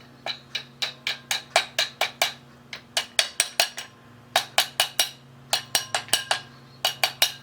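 Hammer tapping small metal parts held in a clamp to seat them flat and finish a bend: quick runs of sharp taps, about four or five a second, with short pauses between runs.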